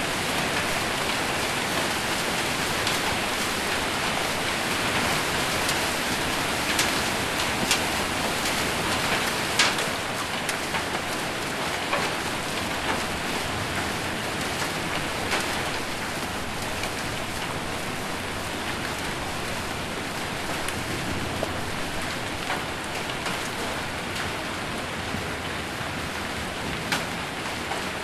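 Heavy rain pelting a metal roof as a steady, dense hiss, with scattered sharper single hits; the loudest hit comes about ten seconds in. The rain eases slightly after that.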